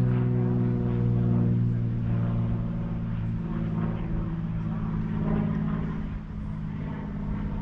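An engine droning steadily, its pitch sagging slowly and shifting about three seconds in, as a motor vehicle or aircraft passes.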